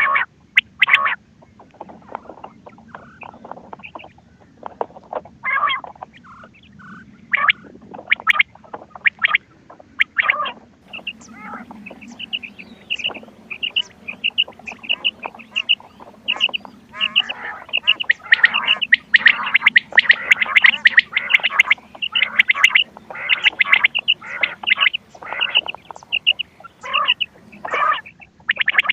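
Recorded quail calls: many short, sharp call notes repeated in quick series, sparse in the first half and dense and overlapping in the second half, as from several birds at once. A faint steady hum runs underneath.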